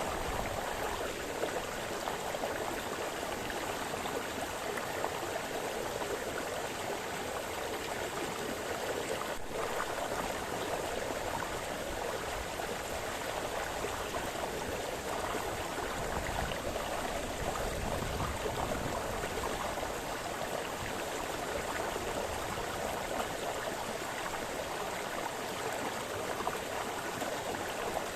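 A small brook splashing and burbling over stones, a steady rush of running water.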